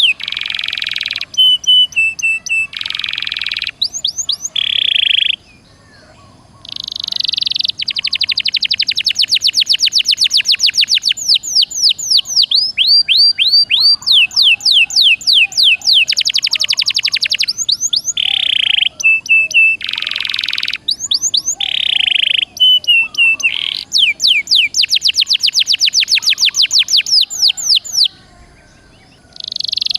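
Domestic canary in full song: long runs of fast trills and rapidly repeated notes, with quick rising sweeps and buzzy passages. The song breaks off briefly about six seconds in and again near the end.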